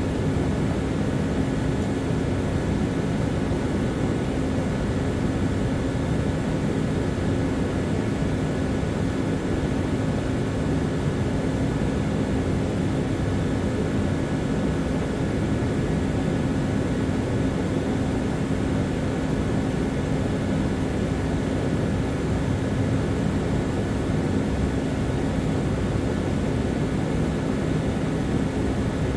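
A machine running steadily: an unchanging mechanical drone with a constant low hum.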